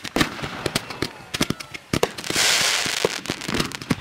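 Fireworks going off at close range: an irregular run of sharp pops and cracks, with a loud hiss a little past halfway as a column of sparks shoots up from the ground.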